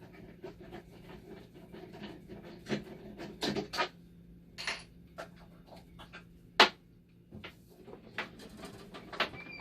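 Scattered clicks, scrapes and knocks from metal parts, screws and tools being handled while a dialysis machine is taken apart. The loudest is a single sharp knock about six and a half seconds in, over a faint steady hum.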